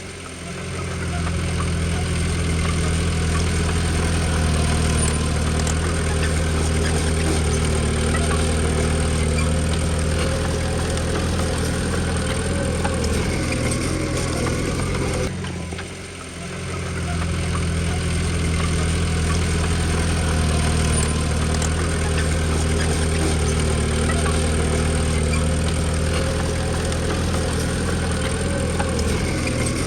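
Diesel engine of a Komatsu D20P bulldozer running steadily under work, with a low, even drone. It drops away briefly about 16 seconds in and then comes back.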